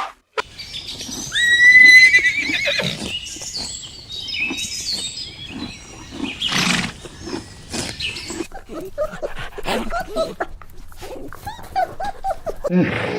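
A horse whinnying: a loud, wavering call about a second in, followed by shorter snorts and noises and a run of sharp knocks.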